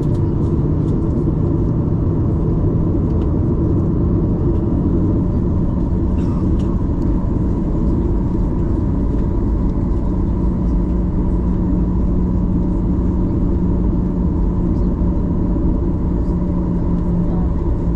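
Cabin noise inside a Boeing 737-800: its CFM56-7B jet engines running with a steady low rumble and a constant hum, no change in pitch or level.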